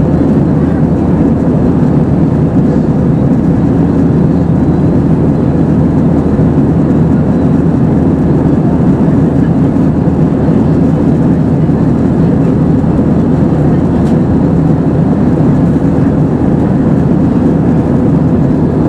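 Steady drone of an Airbus A320-232 heard from inside the passenger cabin, the engines and airflow running evenly with no change in pitch or level.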